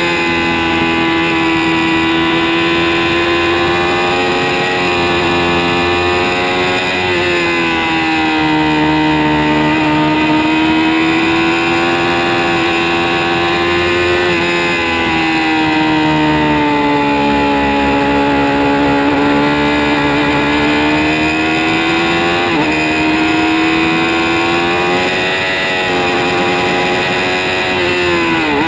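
Kawasaki ZX-6R 636 inline-four sportbike engine running under way on a track. The engine speed holds fairly steady with slow rises and falls in pitch. There are a few brief dips, at about 5, 7, 14 and 22 seconds in.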